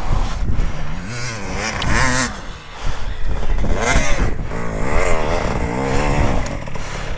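Dirt bike engine revving up and falling back several times in quick succession, over a steady low rumble.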